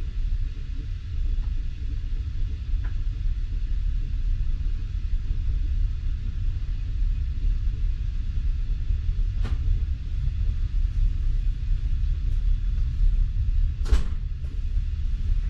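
Passenger train carriage rolling slowly, heard from inside the car: a steady low rumble, with two sharp knocks, one about two-thirds of the way through and a louder one near the end.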